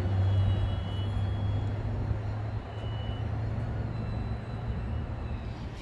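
Stopped train standing with its air brakes released and creeping slightly: a steady low drone, with a faint thin whine about half a second in and another about three seconds in.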